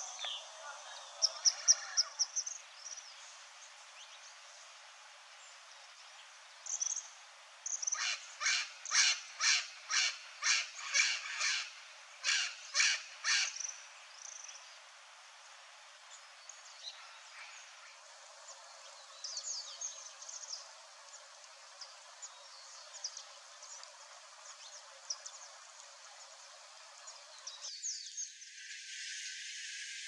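Wild birds calling: a few high chirps at first, then a loud series of about a dozen repeated calls, two to three a second, lasting about six seconds, then scattered faint high chirps.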